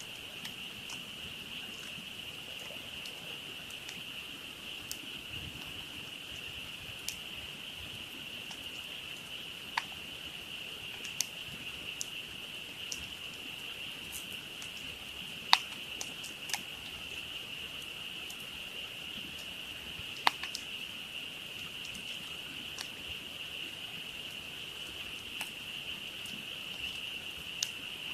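A dense frog chorus, a steady high-pitched hum of many calls merging together, over a wood campfire crackling with sharp pops scattered throughout; the two loudest pops come a little past the middle.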